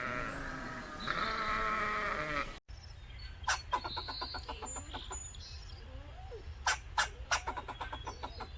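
Sheep or goat-type bleating: two wavering, drawn-out calls. It cuts off suddenly about two and a half seconds in. After that come runs of sharp clicks and taps, with a few louder single clicks, over a low steady hum.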